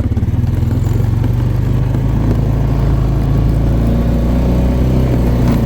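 Small vehicle engine pulling away and running steadily: an even low pulsing gives way to a smoother, continuous drone that builds slightly.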